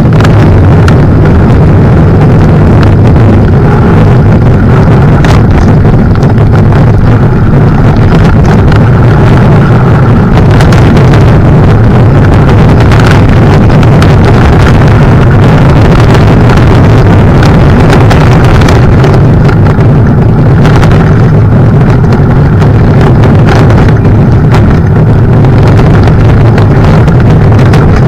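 Mountain bike riding along a rough path, heard through a camera mounted on the bike or rider: a loud, steady rumble of wind and vibration on the microphone, with frequent short knocks and rattles.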